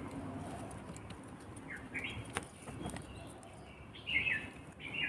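Baby birds chirping: short bursts of quick, falling high notes about two seconds in and twice near the end, with a single sharp click between them.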